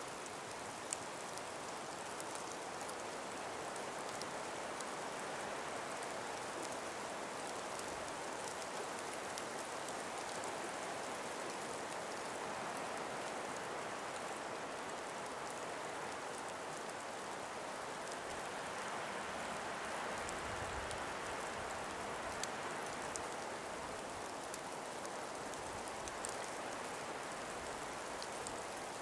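Gentle winter breeze through an ice- and snow-laden forest: a steady soft hiss that swells slightly about two-thirds of the way through, with faint scattered ticks over it.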